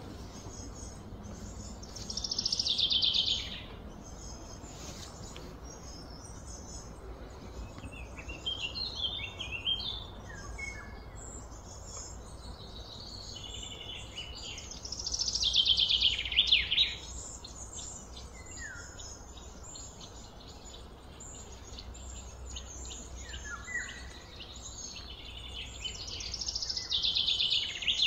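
A songbird singing a loud, fast trill that falls in pitch, three times about twelve seconds apart, with scattered shorter chirps between, over a steady low background rumble.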